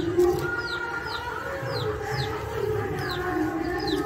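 Birds calling: a high, falling chirp repeated about every half second, over lower, drawn-out wavering calls.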